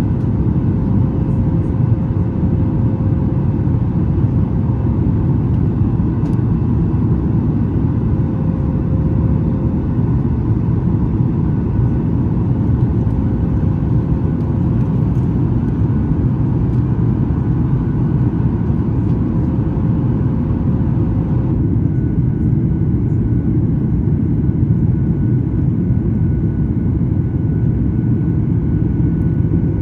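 Steady cabin roar of a Boeing 737 MAX 8 in the climb after takeoff: its CFM LEAP-1B engines and the rushing air, heavy in the low end. About two-thirds of the way through, the higher hiss drops off and a faint steady whine comes in.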